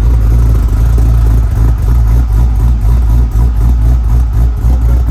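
LS 408 stroker V8 running loud and steady on its first start-up, with an uneven, pulsing low rumble; it sounds healthy.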